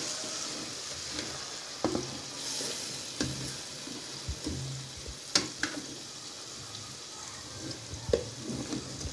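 Chicken pieces and green chilli paste sizzling in hot oil, being fried with the spices (bhuna). A slotted spatula turns them, knocking and scraping against the pan every second or two, loudest about five seconds in.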